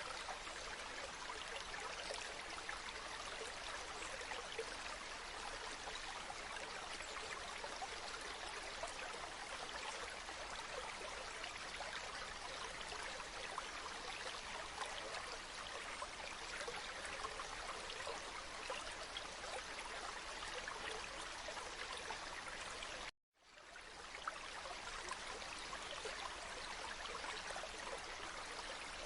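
Steady flow of a babbling stream, an even rush of water with fine trickling detail. About three quarters of the way through it cuts out for a moment and fades back in.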